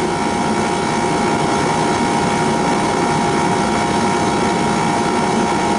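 Outdoor air-conditioning condensing unit running steadily, its compressor and condenser fan making an even drone with a constant hum; the system is low on refrigerant, with suction pressure down to 34.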